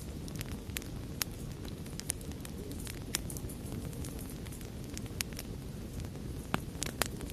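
Campfire crackling: irregular sharp pops and snaps over a steady low rush of burning flames, with the loudest pops near the end.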